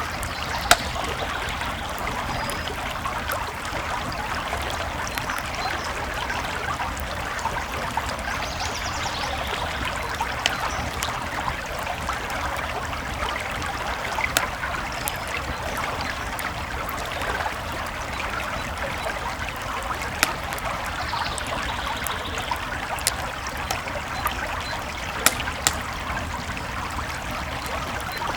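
Creek water flowing steadily, with a campfire crackling over it: sharp pops every few seconds, a few of them standing out louder.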